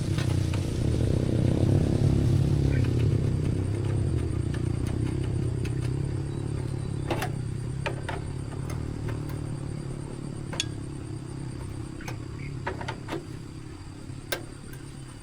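Engine rumble, loudest in the first few seconds and fading steadily, with sharp metallic clicks and knocks scattered through the second half.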